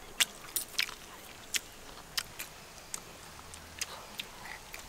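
A person chewing a mouthful of grilled paneer tikka, with a quiet, irregular string of short mouth clicks and smacks.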